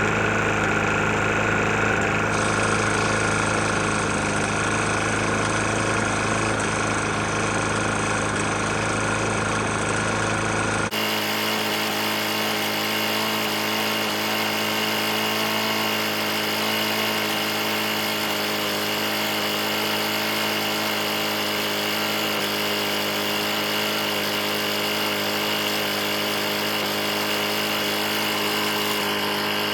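Briggs & Stratton E450 lawn mower engine running steadily with a hammering knock; it ran with very little oil and is knocking pretty bad. About eleven seconds in the sound changes abruptly and the deepest rumble drops away.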